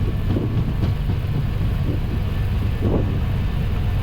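Airbus A320 accelerating down the runway at takeoff thrust, heard from the cockpit: a steady low rumble of engines and rolling wheels, with a few short thumps.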